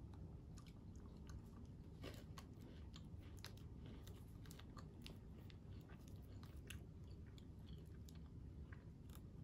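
Faint chewing of a green tea Kit Kat, the wafer crunching in small irregular clicks.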